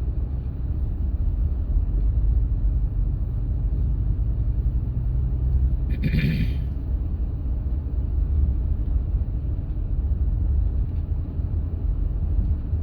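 Steady low road and engine rumble of a Honda Pilot SUV driving, heard from inside the cabin, with a brief hiss about six seconds in.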